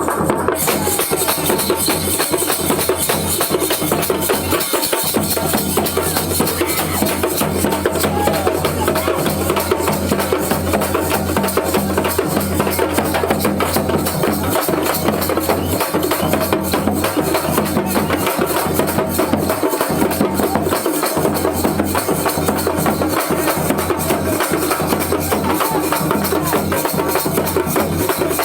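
Thappu (parai) frame drums beaten with sticks in a fast, continuous thappattam rhythm.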